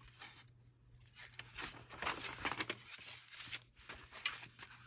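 Quiet handling of a stack of folded paper pages: scattered light rustles and taps that begin about a second in, over a faint steady hum.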